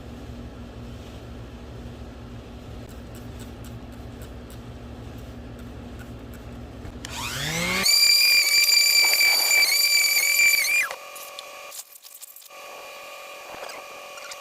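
A small old electric sander wet-sanding a plastic headlight lens with 500-grit paper, running with a steady low hum. About seven seconds in its pitch rises into a loud high whine that holds for about three seconds and then cuts off.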